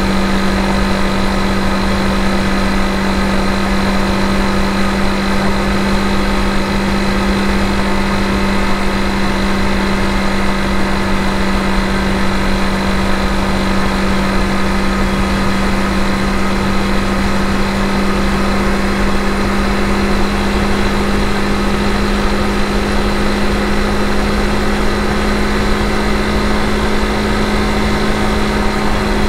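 Honda CRF250 Rally single-cylinder engine running at a steady, unchanging pitch while cruising, under a constant rush of noise.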